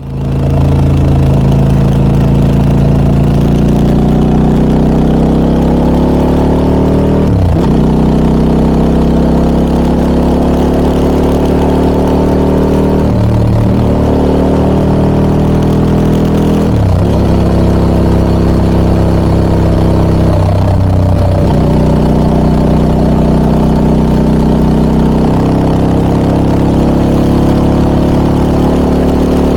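Harley-Davidson Pan America 1250 Special's V-twin engine through a Scorpion aftermarket muffler, pulling under way: the pitch climbs steadily and drops sharply four times as the rider shifts up through the gears.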